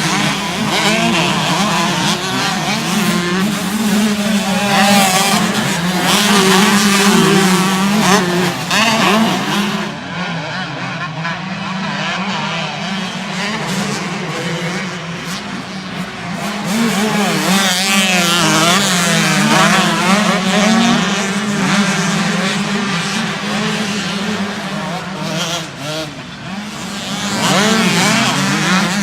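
Motocross dirt bike engines revving hard, their pitch rising and falling again and again as they race, loud and continuous.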